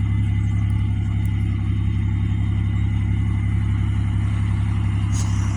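1998 Buick LeSabre's 3.8-litre V6 idling steadily, heard close at the tailpipe while the exhaust blows out heavy smoke.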